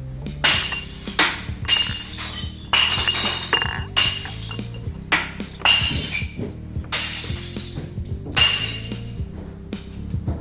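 Glass bottles smashing one after another as they are thrown into a recycling bin, about ten sharp crashes with a bright ringing clink, roughly one a second. A music track plays under them.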